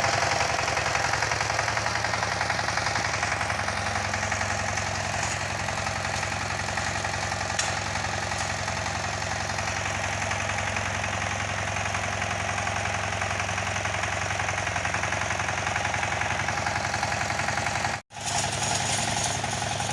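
Walking tractor (two-wheel tractor) engine running steadily with a fast, even beat. The sound drops out for an instant near the end.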